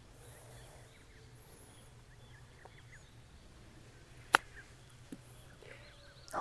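Quiet outdoor ambience with faint bird chirps, broken by one sharp click about four seconds in and a softer click about a second later.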